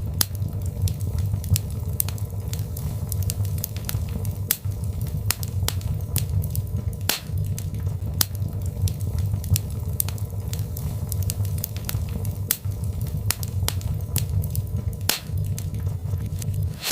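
Birch logs burning in a fireplace, crackling and popping irregularly, several snaps a second, over a steady low rumble.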